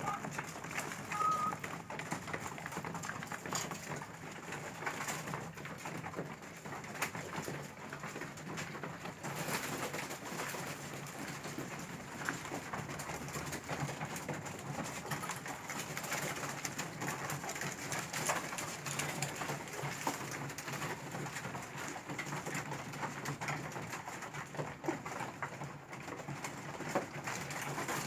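Pigeons cooing steadily, with many small clicks and taps of pecking at food.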